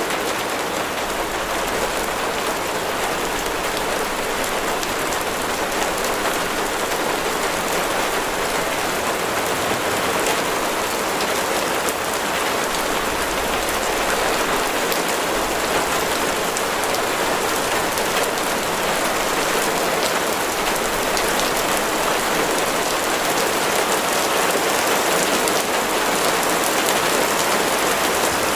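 Steady rain falling on a hard surface: a dense, even hiss of drops with many individual drop impacts ticking through it.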